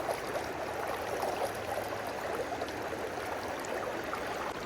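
River water flowing steadily, a continuous rippling rush of current.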